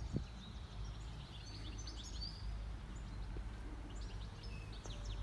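Small birds chirping in short high twitters, in two bursts, over a steady low outdoor rumble.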